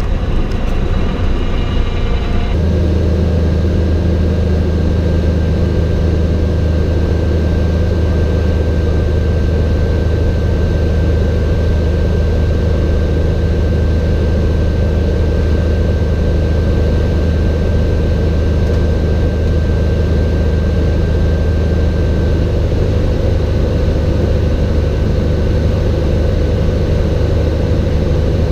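Cessna 182's piston engine and propeller droning steadily. A high buzzing tone sounds over it at the start and cuts off about two and a half seconds in.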